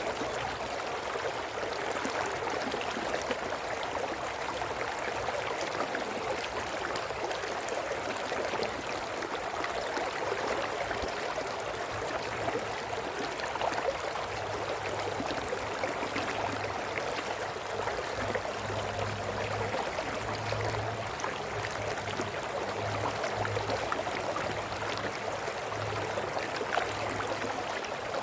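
A small brook flowing and babbling steadily over stones. A faint low hum comes and goes in the background from about halfway through.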